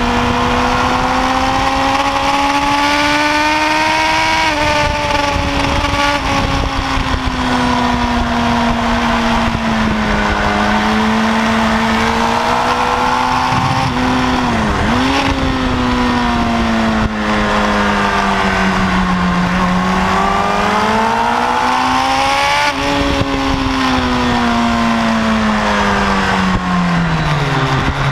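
Kawasaki ZX-10R's inline-four engine heard from on board at track speed over steady wind rush. Its pitch climbs under acceleration, drops back at each gear change, dips sharply and recovers about fifteen seconds in, and falls away for a long stretch near the end as the bike slows into a corner before rising again.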